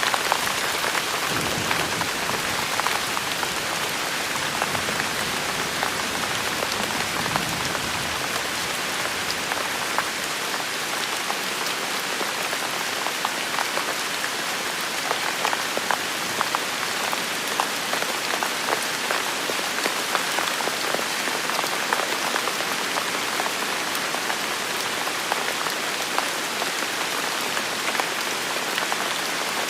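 Steady rain falling, with many individual drops ticking sharply on hard surfaces. A faint low rumble underneath dies away about ten seconds in.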